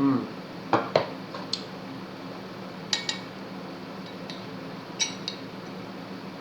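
Metal teaspoon clinking against a soup bowl: a few light, sharp clinks in pairs, about a second in, at three seconds and at five seconds.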